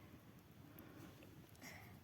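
Near silence: faint outdoor background hush, with a brief faint sound near the end.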